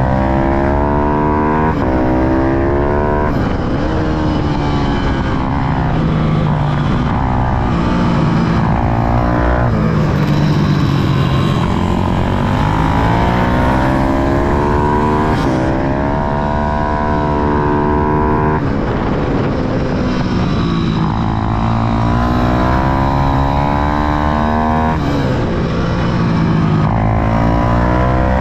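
Small single-cylinder minibike engine, a pit bike or Ohvale, run hard around a kart track. Its pitch climbs under full throttle, then drops suddenly at each gear change or corner entry, several times over.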